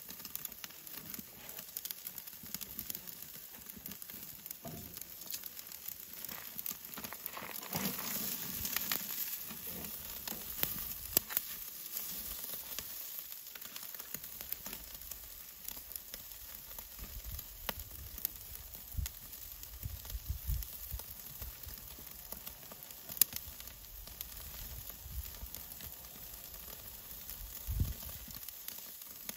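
Food sizzling as it fries, a steady crackling hiss with a few sharper pops.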